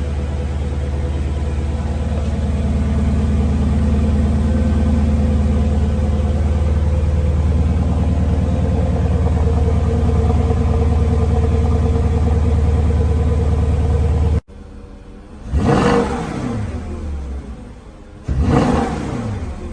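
Porsche Cayenne S 4.5-litre V8 idling steadily after a cold start. It then cuts off abruptly and is blipped twice, the revs rising and falling quickly each time.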